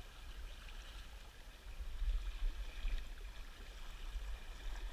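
Steady rush of river water flowing below a power dam, over a low, uneven rumble.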